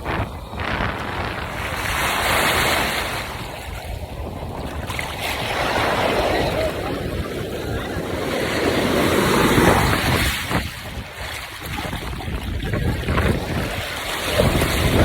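Sea surf washing onto a sandy beach, swelling and easing every few seconds, with wind rumbling on the microphone.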